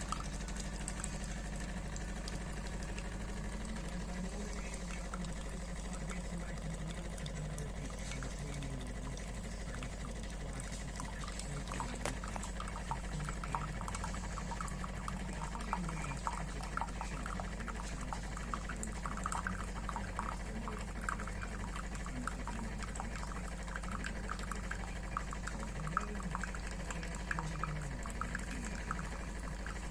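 De'Longhi Specialista Prestigio espresso machine running, its pump giving a steady low hum while liquid gurgles and crackles through it.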